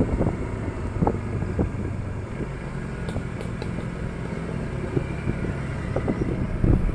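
Motorcycle engine running steadily at low speed, with scattered short knocks and rattles.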